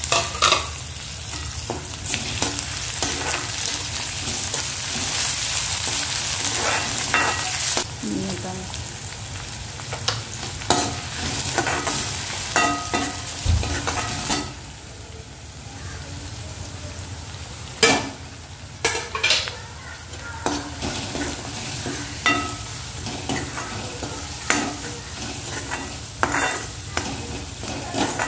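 Onions and chopped tomatoes sizzling in oil in a kadhai while a steel ladle stirs and scrapes against the pan, with repeated short scrapes and clinks. The sizzle is loudest for the first several seconds.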